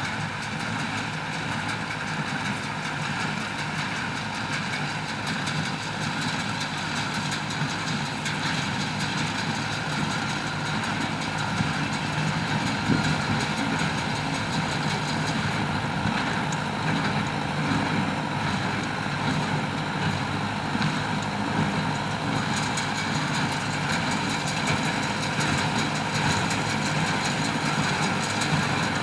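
Ford 5000 tractor's engine running steadily, driving a New Holland BC5060 small square baler, with the baler's machinery running along with it.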